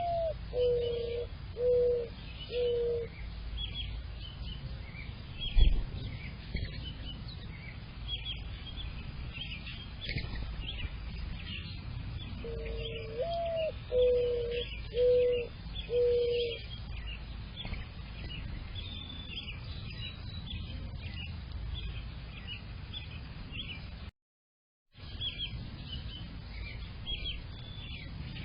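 A mourning dove sings its cooing song twice: a rising first coo, then three lower steady coos. Behind it runs a steady chorus of high chirping songbirds. There is a single thump about five and a half seconds in, and the sound drops out for a moment near the end.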